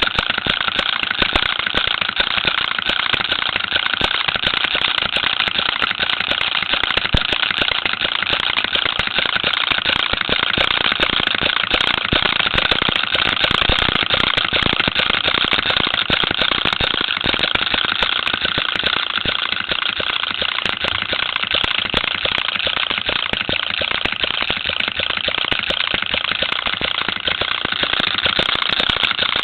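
Small home-built model engine running steadily, a fast, even stream of sharp exhaust beats.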